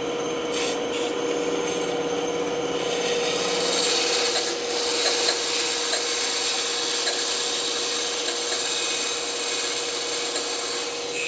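Band saw running with a steady hum, its blade cutting through wood, the cutting noise growing louder about three seconds in and carrying on.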